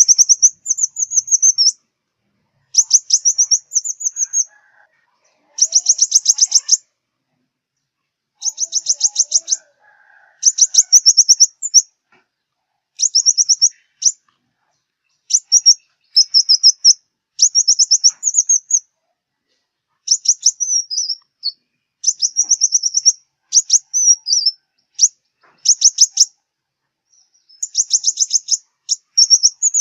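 Sunbird singing: repeated short, very high-pitched phrases of rapid ticking notes, each under about a second, with brief pauses between them.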